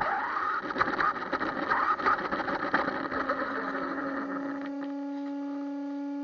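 Small electric RC truck motor and gears whirring, with crackly clicking noise, fading over the first four seconds or so. A steady even-pitched hum comes in about three seconds in and holds on unchanged.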